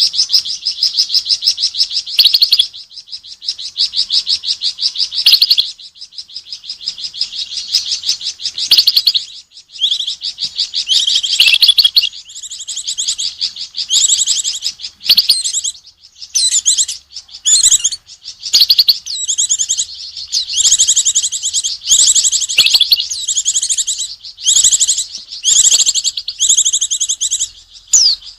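Small songbird known to keepers as a Flamboyan giving fast, high, buzzy chattering trills at the sight of an owl: an alarm or mobbing call. The chatter runs almost without a break for the first several seconds, then comes in repeated short bursts.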